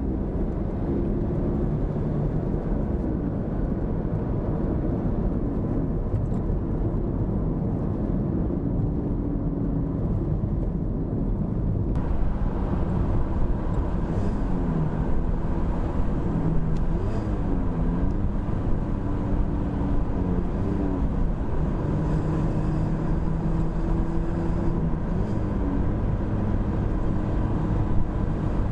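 Mazda MX-5 Miata (ND) engine running through an aftermarket AIMGAIN valved exhaust while the car is driven. The exhaust note rises and falls in pitch as the revs change.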